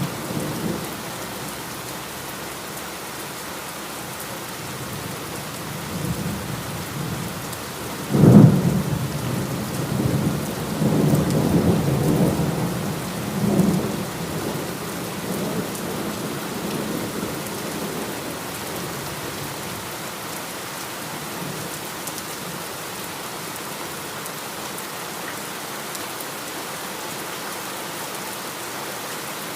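Steady heavy rain with a rumble of thunder fading at the start. About eight seconds in comes a sharp thunderclap that rolls on for about six seconds before dying away, leaving the rain alone.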